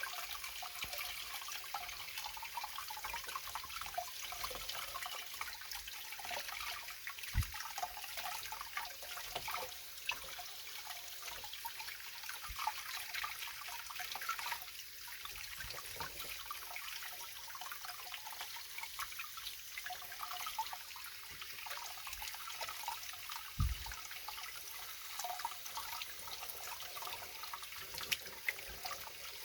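Water trickling and splashing lightly in small ticks, with two brief low thumps, about seven seconds in and again near the twenty-four-second mark.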